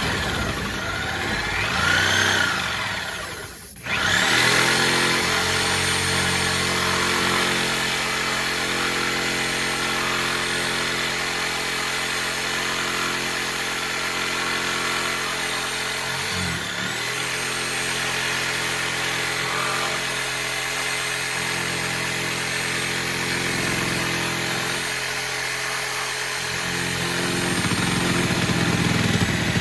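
Electric circular saw, its blade fitted backwards, running steadily as it cuts through rotten plywood subfloor. It starts up after a brief pause a few seconds in, and dips and picks up again about halfway through.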